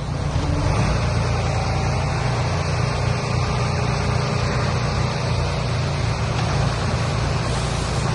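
Heavy diesel engine of earthmoving machinery running steadily with a deep rumble, getting a little louder about a second in.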